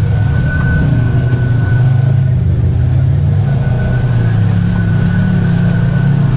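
Polaris RZR side-by-side engine running steadily, its note drifting slightly in pitch, with a thin steady whine above it.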